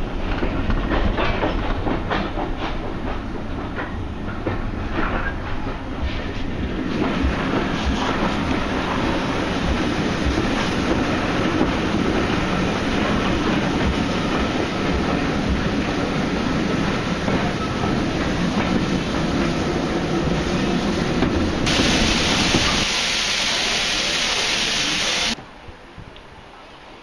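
Heritage railway train running, heard from aboard: a steady rumble with wheels clicking over the rail joints. About three-quarters of the way in a loud hiss takes over for a few seconds, then the sound cuts off abruptly to a much quieter background.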